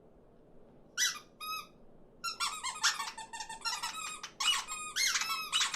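High-pitched squeaky chirping: two short chirps about a second in, then a dense, rapid chatter of squeaky calls.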